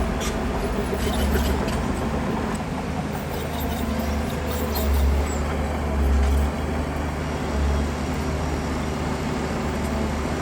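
Heavy diesel engine of earth-moving machinery running under load, a steady low drone that swells louder several times. A few faint clinks come in the first two seconds.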